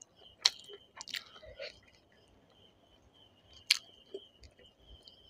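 Close-up mouth sounds of someone eating chicken curry and rice by hand: quiet wet chewing with three loud sharp clicks and smacks, about half a second in, just after a second and near four seconds.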